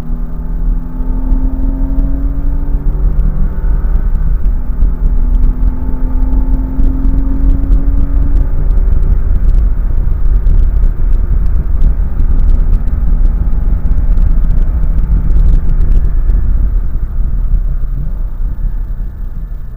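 Car engine heard from inside the cabin, pulling up in pitch twice in the first half and then holding steady, under a heavy low rumble of road and wind noise; it eases off a little near the end.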